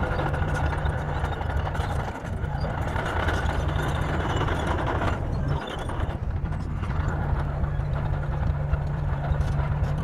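Bulldozer's diesel engine running steadily with a low drone, briefly dropping about two seconds in and again near six seconds in.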